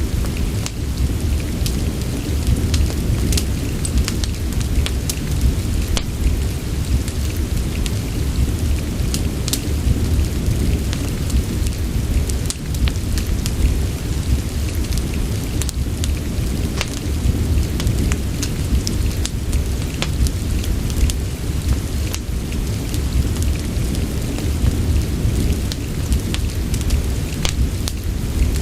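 Steady rain with a deep, continuous rumble, mixed with a fireplace's crackle: scattered sharp pops at irregular moments.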